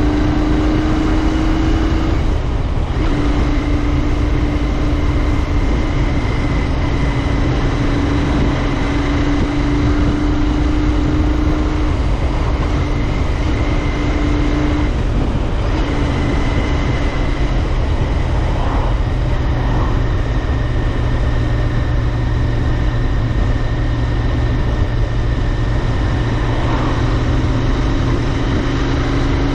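Royal Enfield Interceptor 650's 648 cc parallel-twin engine running at a steady cruise under way, with a steady engine note that drops out briefly twice, about two seconds in and about halfway through, over low wind rumble on the microphone.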